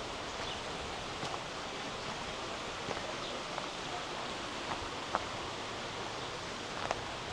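Steady rush of flowing water from a mountain stream, even in level, with a few faint short clicks scattered through it.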